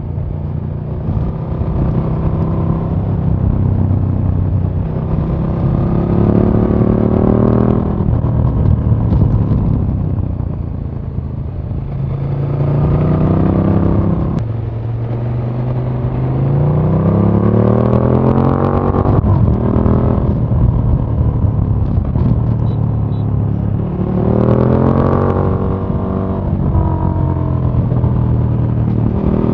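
A KTM 1290 Super Duke R's 1301 cc V-twin is ridden hard and heard from onboard. The engine note climbs in pitch about five times, and each climb ends in a sudden drop. Between the climbs it runs at a lower, steadier note.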